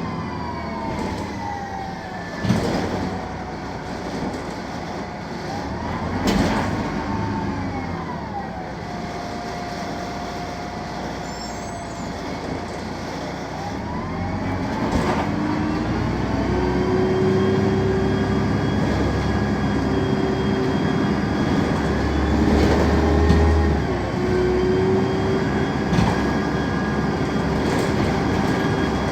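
City bus running on its Mercedes OM 906 LA six-cylinder diesel through a Voith automatic gearbox. Its whine falls in pitch as it slows, holds low for a few seconds, then rises as it pulls away and settles at a steady pitch. A few sharp knocks and rattles sound along the way.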